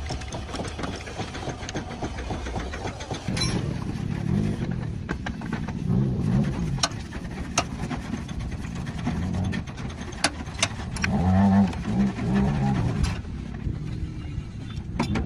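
Workshop noise: a steady low rumble with scattered single sharp taps or knocks.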